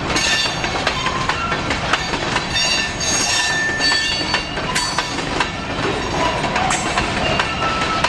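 Freight train of covered hopper cars rolling past close by: a steady rumble and clatter of steel wheels on rail with sharp clicks, and short high squeals from the wheels now and then.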